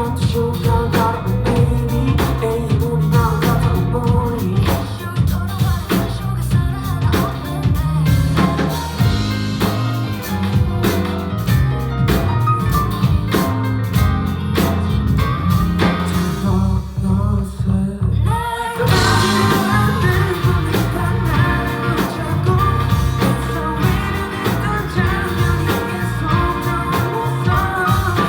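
A live pop-rock band playing with drums, bass and electric guitar. About sixteen seconds in, the band drops out to a low, sparse sound for a couple of seconds, then comes back in full.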